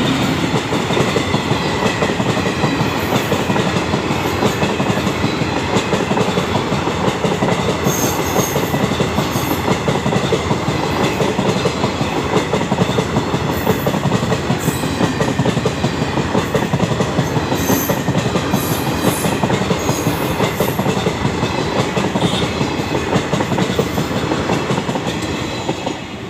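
Indian Railways passenger train passing at speed over a level crossing: a steady rumble with the clickety-clack of coach wheels over the rail joints, dropping away near the end as the last coach goes by.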